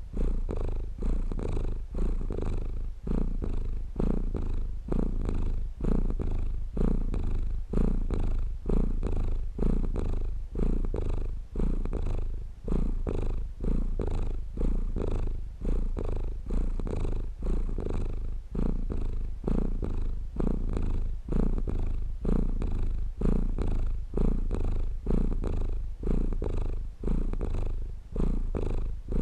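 Domestic cat purring steadily, a low continuous rumble that swells and eases in a regular rhythm with each breath, about once every one and a half to two seconds.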